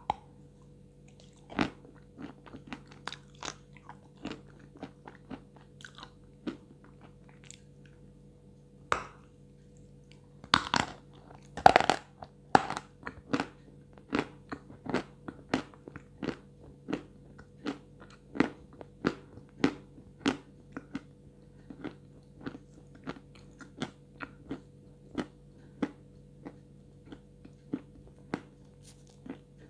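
Dry, crisp crunching and chewing of a block of edible chalk, picked up by a lapel microphone held right at the mouth. A few loud crunching bites come about ten to thirteen seconds in, then chewing goes on at about two crunches a second.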